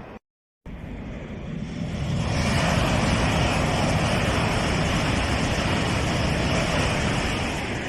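Chinese high-speed EMU train running through a station at speed: a rushing roar that swells over about two seconds, then holds loud and steady. A moment of silence near the start marks an edit cut.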